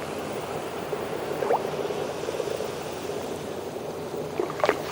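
Steady gurgling, hissing water ambience of an underwater scene, with a faint short pitched sound about a second and a half in and a couple more near the end.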